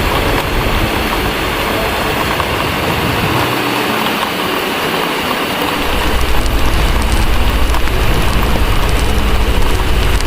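Heavy rain hissing steadily under a deep, low rumble of thunder. The rumble dies away about three and a half seconds in and swells back louder about six seconds in.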